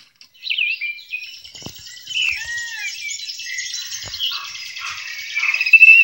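Several birds chirping and whistling together: quick high chirps mixed with whistled notes that slide up and down, loudest near the end.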